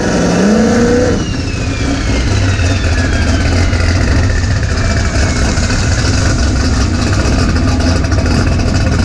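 Drag race car engine revving up and then running hard, a loud steady rumble with a high whistle that slowly falls in pitch as the car pulls away down the track.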